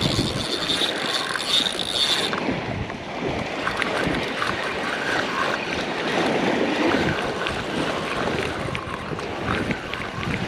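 Strong wind buffeting the microphone over steady surf wash. A higher-pitched hiss sits on top for the first two seconds and then cuts off suddenly.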